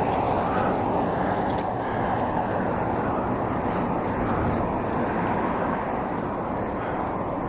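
Steady rush of wind across the microphone while riding a bicycle.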